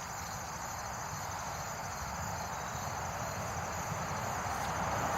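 Insects calling outdoors in a steady, high, fast-pulsing trill, with a broad rushing noise swelling louder toward the end.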